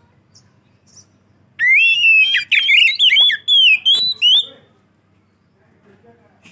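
Oriental magpie-robin (kacer) singing: a loud burst of fast, varied whistled phrases lasting about three seconds, starting about a second and a half in.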